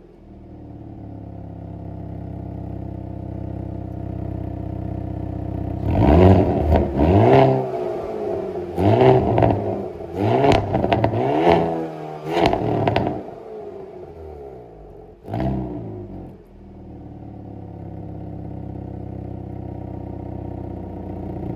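Hyundai Kona N's turbocharged 2.0-litre four-cylinder heard through its exhaust with the active valve open: idling, then a run of about six quick throttle blips a few seconds in, each revving up and dropping back, one last short blip, then settling back to idle.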